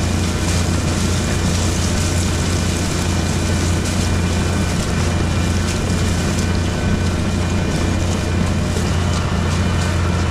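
Deutz-Fahr Agrotron 6165 RC Shift tractor engine running steadily under load while plowing, with a strong low hum.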